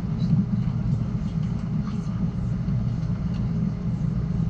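Amtrak Cascades passenger train running at speed: a steady low rumble, with faint ticks now and then.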